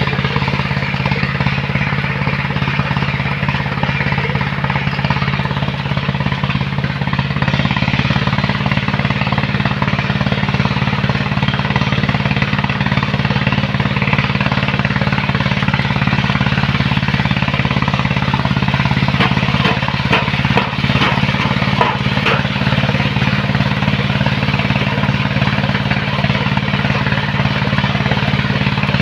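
Engine of a heavy sand-loading machine running steadily at one speed, with a rough rattling edge over its low hum; a few sharp knocks come about twenty seconds in.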